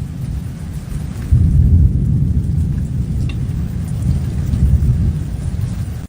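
Loud, fluctuating low rumble with a faint hiss above it.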